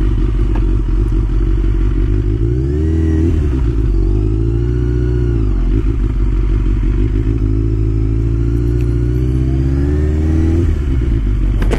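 Sport motorcycle engine pulling at low revs, its note rising and falling twice: rising about two and a half seconds in, easing off near the middle, rising again and dropping back near the end.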